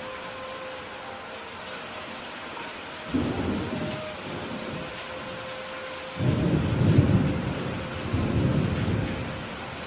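Steady rain falling, with two rolls of thunder: a short one about three seconds in, and a longer, louder one starting about six seconds in that rumbles for about three seconds.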